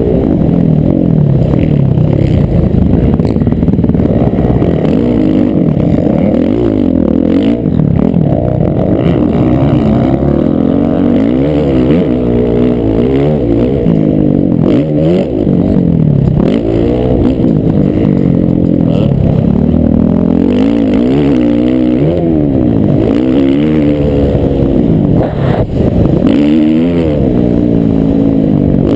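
Several motocross dirt bikes racing on the track, their engines revving up and falling back again and again, many rising and falling engine pitches overlapping.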